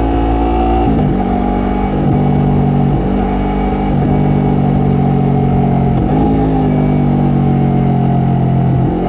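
Yamaha MT-03 parallel-twin engine and exhaust under way, its note holding fairly steady, with brief dips and changes of pitch about a second in, around three seconds and around six seconds.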